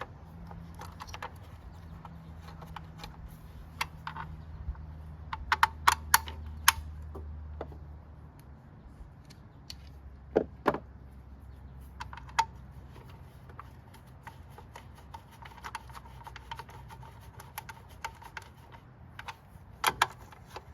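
Scattered metallic clicks and clinks of hand tools, bolts and parts being handled while a small engine's recoil starter is fitted, with a quick run of clicks about six seconds in and a few more near the end, over a low steady hum.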